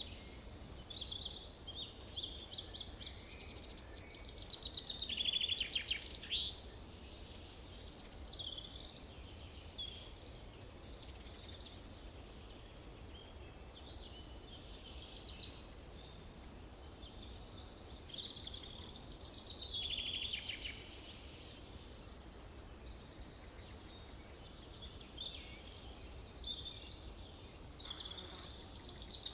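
Several forest birds singing and calling over one another: short chirps, whistled glides and fast rattling trills, most of them high-pitched, with a busier burst about five seconds in. A steady low rumble lies underneath.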